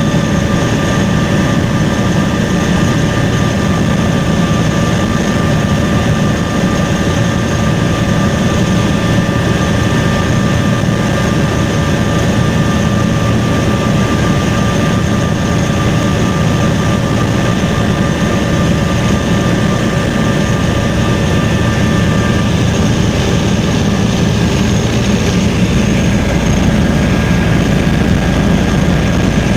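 Helicopter engine and rotor noise heard from on board, a loud steady drone with a steady whine over it.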